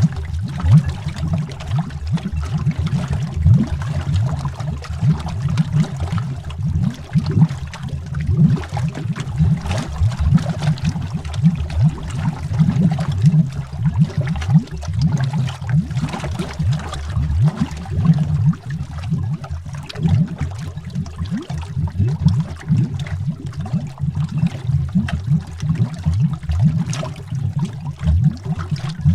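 Continuous underwater bubbling: a dense stream of low, rounded bubble pops and gurgles, with many small bubbles rising in pitch.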